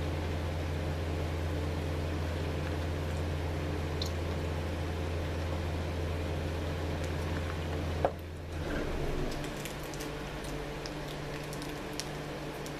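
Steady low hum with faint, wet chewing and mouth sounds from someone eating. A sharp click comes about eight seconds in, after which the deepest part of the hum drops away and the sound gets a little quieter.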